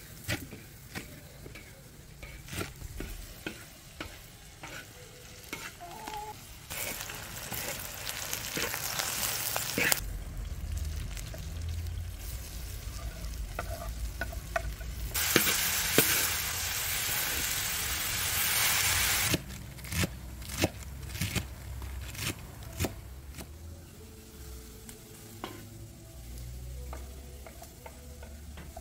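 A knife chopping fresh herbs on a wooden cutting board in quick, regular strokes. Then the herbs sizzle in hot oil in a wok over a wood fire, loudest for about four seconds around the middle, while a spatula stirs and clicks against the pan.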